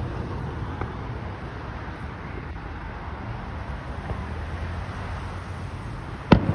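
A firework bursting with one sharp, loud bang near the end, over a steady low rumble.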